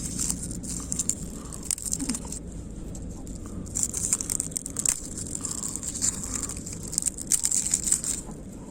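Food sizzling and crackling in hot oil in a pan on a cassette-gas camping burner, the sizzle swelling louder three times, about 4 and 7 seconds in, over a steady low burner rumble.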